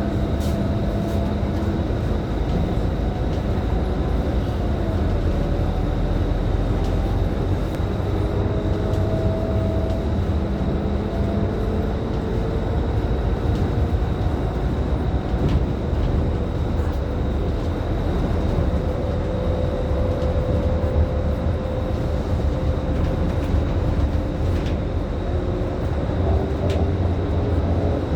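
Scania K310IB city bus under way, heard from inside: its rear-mounted five-cylinder diesel runs steadily with a heavy low rumble and road noise, and faint whines shift slowly in pitch as it cruises.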